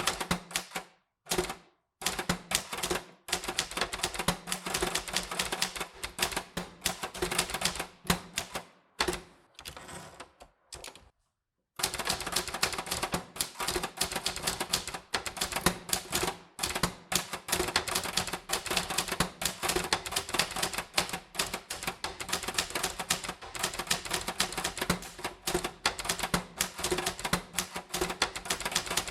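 Typewriter keys striking in quick, irregular runs of clacks. There is a short break about a second in and a longer lull around ten seconds in, after which steady typing resumes.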